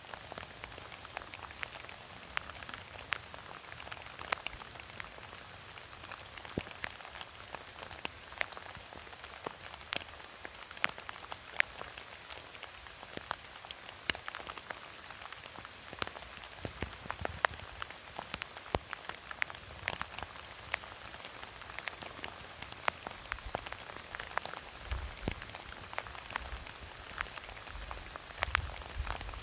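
Steady winter rain with many separate drops ticking irregularly onto bare tree branches and dead leaves.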